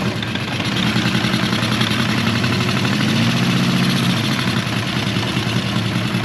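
Honda CB400F inline-four motorcycle engine idling, breathing through K&N pod filters. It runs steadily, growing a little louder in the first second as the idle is raised slightly from too low.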